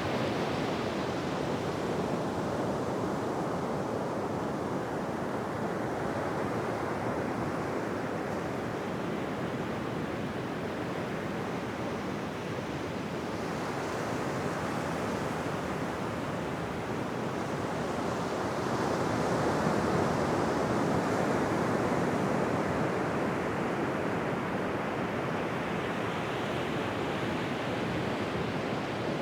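Ocean surf washing onto a beach: a steady rush of waves that swells and eases slowly, with a louder swell about two thirds of the way through.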